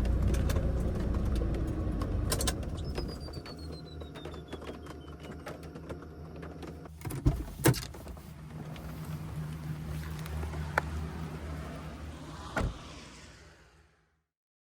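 Car engine running with a steady low hum, a few sharp clicks and knocks partway through, fading out near the end.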